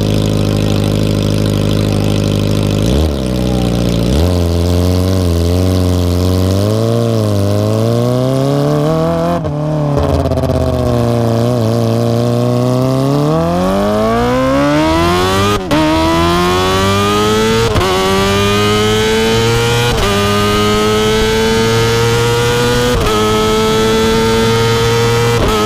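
Kawasaki ZX25R's 250 cc inline-four engine through an Akrapovic exhaust while riding. It holds a steady note for a few seconds, then the throttle opens and closes unevenly. From about ten seconds in it accelerates hard, its pitch climbing steeply, with a sharp dip at an upshift and then several more short dips as it keeps pulling through the gears.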